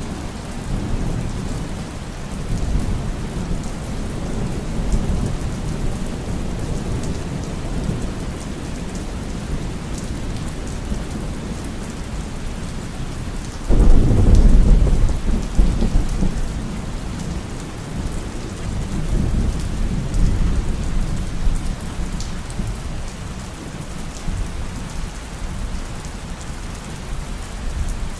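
Heavy rain falling steadily with thunder rumbling low. About halfway through a sudden loud thunderclap breaks and rolls on for several seconds.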